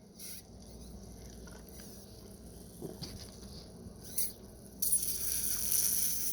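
Cola being sipped through a straw from a glass of ice: small scattered clicks and rustles, then a loud hissing slurp for about a second and a half near the end.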